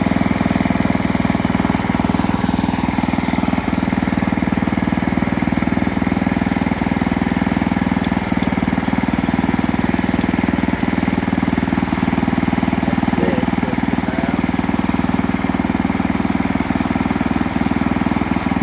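Portable sawmill's engine running at a steady speed.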